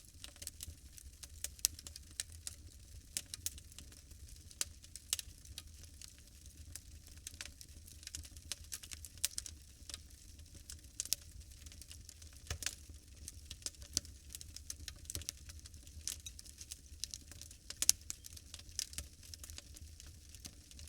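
Wood fire burning in a fireplace, crackling with irregular sharp pops and snaps over a soft hiss, one pop louder than the rest near the end.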